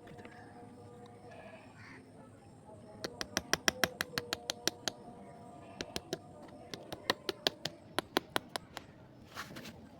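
A rapid run of sharp clicks or taps starting about three seconds in, several a second at first, then thinning out and stopping near the end.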